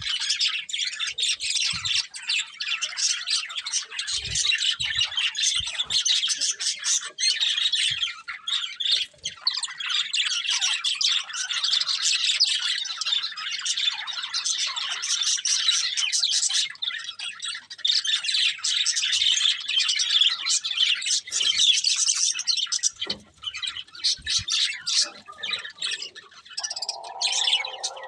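Budgerigars chirping and chattering without a break, a dense stream of rapid high chirps and warbles, with a lower, harsher call near the end.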